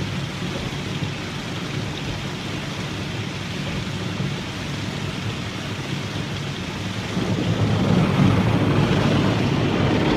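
Automatic car wash working over a car, heard from inside the cabin: water spray and rotating brushes rinsing off the soap, a steady wash of noise over a low machine hum. It grows louder about seven seconds in as the wash moves onto the roof.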